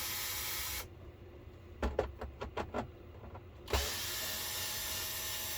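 Cordless power screwdriver running in two steady spells, undoing screws, with a few sharp clicks between the spells.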